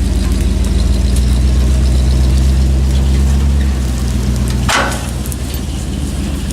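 Vehicle engine running steadily, a little louder for a few seconds, then dropping back to a lower idle just before five seconds in, when a single sharp clunk is heard.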